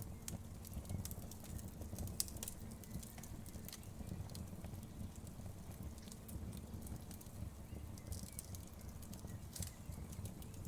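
Wood fire crackling: a steady low rumble with irregular small pops and snaps, one sharper snap about two seconds in.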